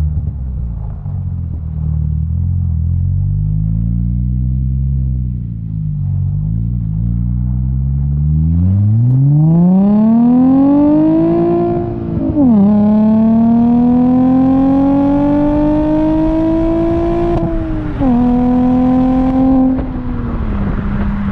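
2003 Audi A4 B6's 3.0-litre V6 through a custom exhaust, first running at low revs, then accelerating hard from about 8 seconds in with a long rising note that dips sharply at two upshifts, before easing off to a lower steady note near the end.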